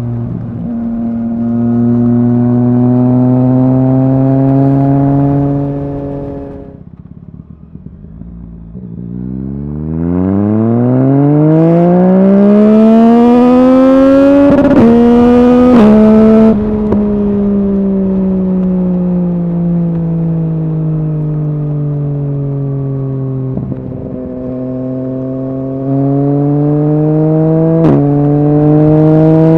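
2020 Yamaha MT-09's 847 cc three-cylinder engine through a full Arrow exhaust, ridden hard: it climbs in pitch, eases off briefly, then accelerates steeply with two quick upshifts. The pitch then falls slowly as the bike slows, and it picks up again near the end with more gear changes.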